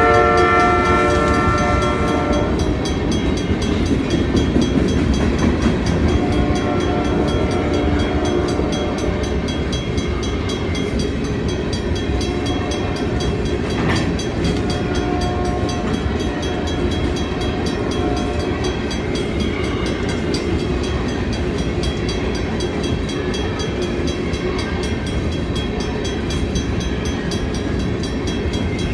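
Freight train rolling past, its cars making a steady rumble and rattle on the rails. A train horn sounds at the start, and fainter horn blasts come twice more, about seven and sixteen seconds in.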